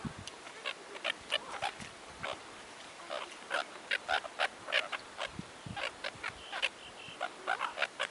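Gulls squawking in quick, short calls, many in a row, as they feed.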